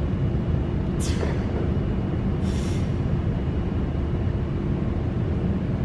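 Steady low rumble with a faint steady hum underneath, and two brief hisses about one and two and a half seconds in.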